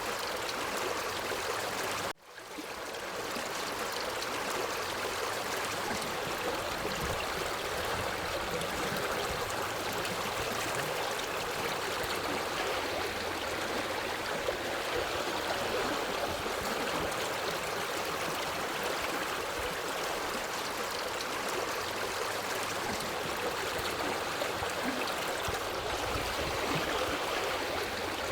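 A forest stream running steadily over rocks, an even rushing and gurgling of water. About two seconds in the sound briefly cuts out and fades back in.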